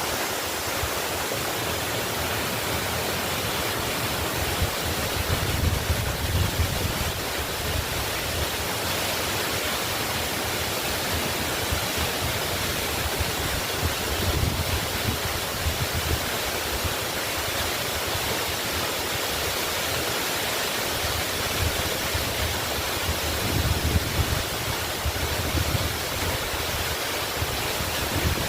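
Waterfall rushing as a steady, even roar of falling water, with a deeper low rumble swelling up three times.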